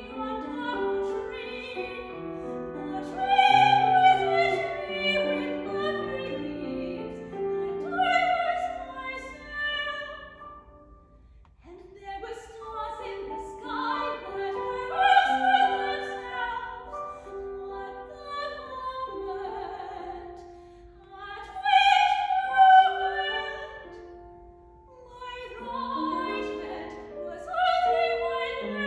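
Classical female voice singing an art song with vibrato, accompanied by piano. The phrases break off briefly about eleven seconds in and again near 24 seconds.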